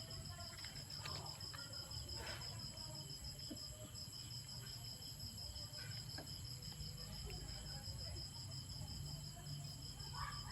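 Crickets chirping steadily, a high pulsing trill of about five pulses a second with a couple of brief pauses.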